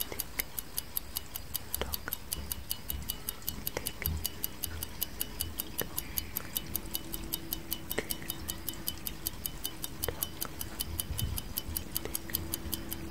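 Clock tick-tock sound effect: steady, evenly spaced ticking, with a stronger click about every two seconds.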